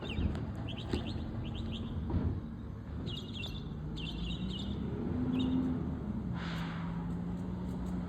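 Small birds chirping in quick repeated trills over the low drone of an engine running, its pitch rising a little about five seconds in and then holding steady. A short hiss sounds about six and a half seconds in.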